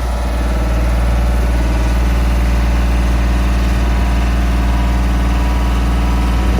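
An engine running steadily at an even speed, a loud, constant low hum.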